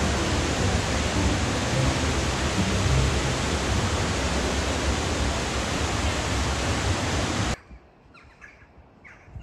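Waterfall crashing close by, a loud steady rush of water. It cuts off abruptly about 7.5 s in, leaving a quiet outdoor background with a few faint bird chirps.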